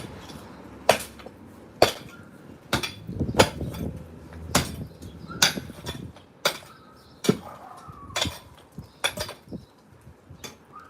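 Hand-swung hammer blows on concrete during manual demolition: a run of sharp strikes, about one a second, some louder than others.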